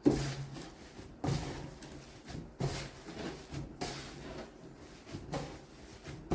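Hands mixing and kneading seasoned ground pork in a bowl: a soft squishing thud about every second and a quarter.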